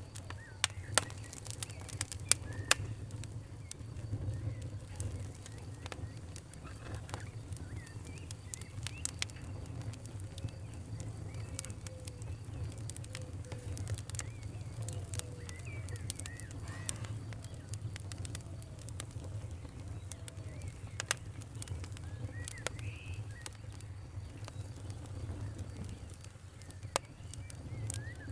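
Wood fire crackling, with irregular sharp pops, the loudest in the first few seconds, over a steady low rumble.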